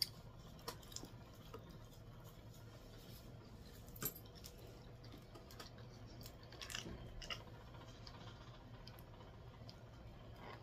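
A bite into a Taco Bell chalupa, with a sharp crunch right at the start, then quiet chewing with scattered small crunches and mouth sounds.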